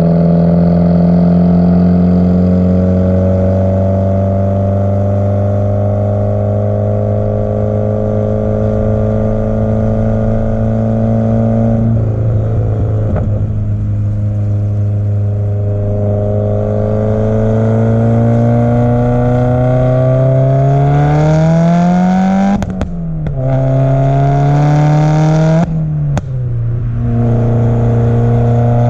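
2017 Subaru WRX's turbocharged flat-four through an Invidia catless J-pipe and titanium N1 cat-back exhaust, running at steady revs, then accelerating with a rising pitch. The pitch drops suddenly twice in the second half, as at gear upshifts.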